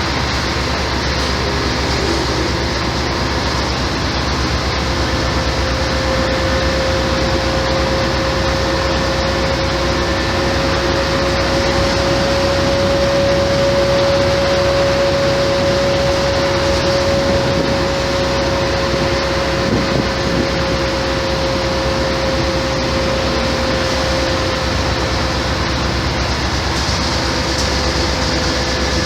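Mercedes-Benz O-500MA bus running with its Bluetec 5 diesel engine and ZF automatic gearbox. Steady engine noise with a whine that rises slightly in pitch and loudness toward the middle, then eases back down.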